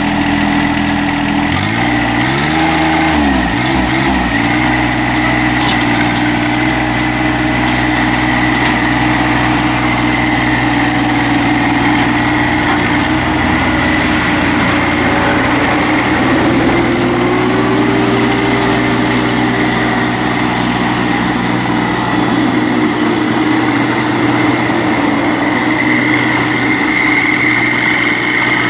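John Deere 2025R compact tractor's three-cylinder diesel running just after being started. Its speed wavers up and down a couple of seconds in, then it runs steadily, with a slight rise in engine speed partway through.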